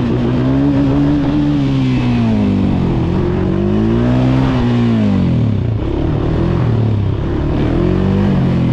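Dirt bike engine revving, its pitch climbing and dropping several times as the throttle is worked.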